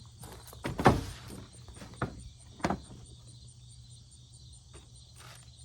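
A few knocks and thuds of gear being moved and set down in a pickup truck bed, the loudest about a second in and two lighter ones near the two- and three-second marks. Insects chirp steadily behind.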